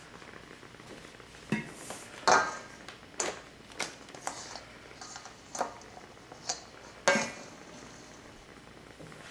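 Kitchen utensils and dishes clinking, about eight sharp knocks with a short ring, the loudest about two seconds in and about seven seconds in.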